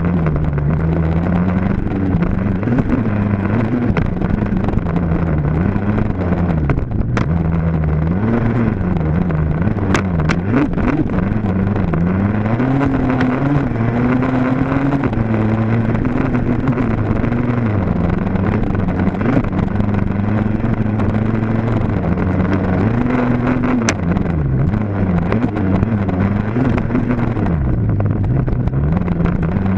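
Dirt bike engine running hard, its pitch rising and falling again and again as the throttle opens and closes through the gears, with a few sharp clicks over it.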